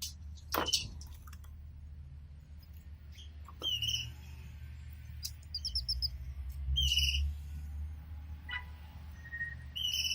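Canaries giving short chirping calls a second or more apart, with one quick trill about halfway through; the loudest calls come near the start and about two-thirds of the way in. A steady low hum runs underneath.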